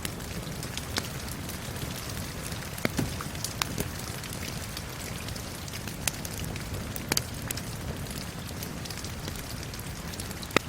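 Steady rain falling mixed with a crackling wood fire: a continuous hiss of rain under irregular snaps and pops from the burning logs.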